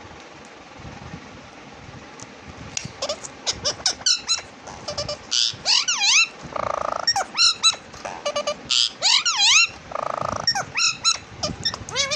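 A pet parrot calling, after a couple of seconds of faint background hiss: a quick run of squeaky chirps and wavering whistles, with two longer harsh, buzzy screeches partway through.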